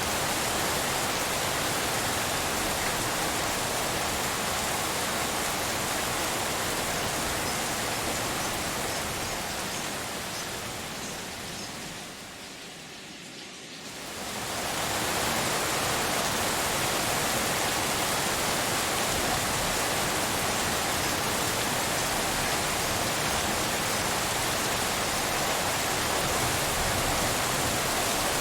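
Steady rain sound blended with pink noise, an even hiss. About eleven seconds in it fades down, and it swells back to full about three seconds later.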